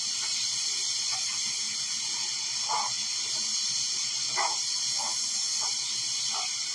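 Seasoned nuts frying in a hot frying pan: a steady sizzle with a few irregular pops and crackles.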